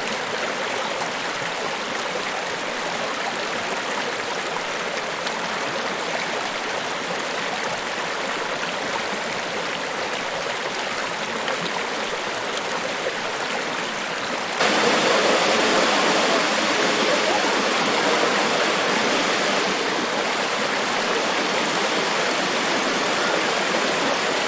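Niagara Falls: a steady, loud rush of falling water that jumps suddenly louder and fuller about two-thirds of the way through.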